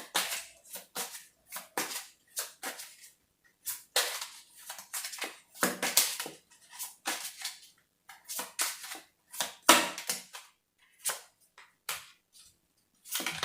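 Tarot cards being shuffled and laid down on a table: a run of short, irregular snaps and slaps.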